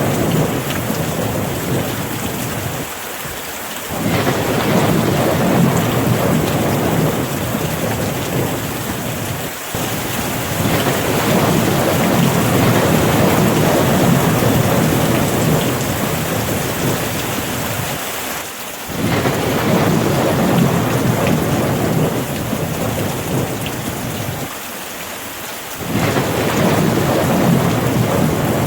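Steady rain falling hard, with a deep rumble of thunder that swells and fades several times, dipping briefly in between.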